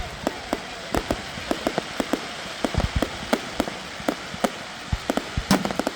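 Fireworks crackling and popping: a rapid, irregular run of sharp cracks, several a second, over a steady hiss, with one louder bang about five and a half seconds in.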